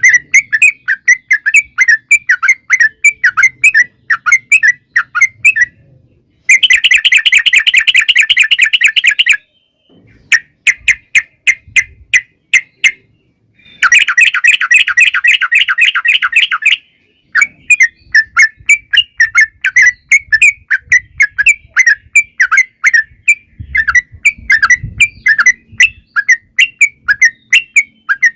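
Yellow-vented bulbul (trucukan) singing a fast chattering series of short chirps. Twice it breaks into a long, very rapid rattling trill of about three seconds, the 'ropel' these birdkeepers prize.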